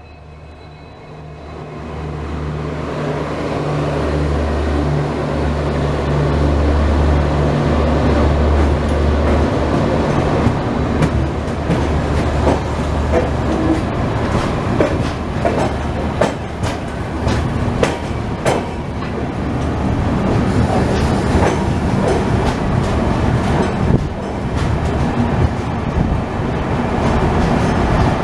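Passenger train running, heard from aboard a coach: a steady low drone that swells over the first few seconds, then wheels clattering over the rails with many sharp clicks from about ten seconds on.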